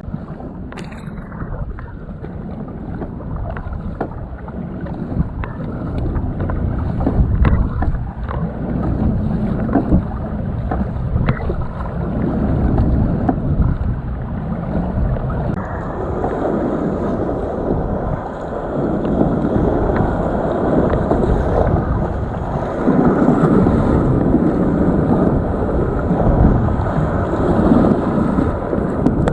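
Kayak under way: water washing and splashing around the hull and paddle in swells every few seconds, with wind buffeting the microphone.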